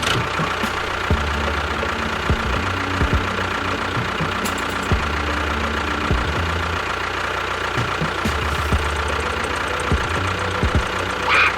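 A small motor-driven machine running steadily, with scattered knocks and a brief falling whine near the end.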